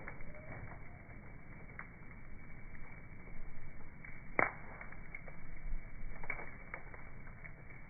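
Campfire crackling: scattered sharp pops and snaps over a low steady hiss, with the loudest pop about four and a half seconds in. The sound is slowed down and dull, as from a slow-motion recording.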